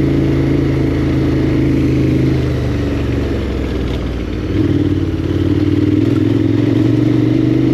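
KTM 1290 Super Adventure R's V-twin engine running at a steady cruise, easing off for a couple of seconds near the middle and picking up again just past halfway.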